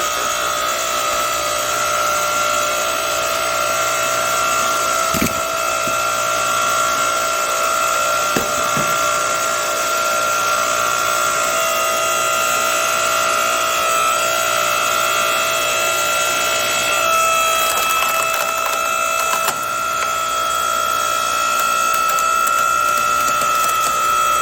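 Tiya 8-ton hydraulic log splitter running with a steady high whine from its motor and pump, as the wedge forces through knotty firewood. Wood cracks and splinters sharply about five and eight seconds in, and again several times late on, where the whine drops slightly in pitch under load.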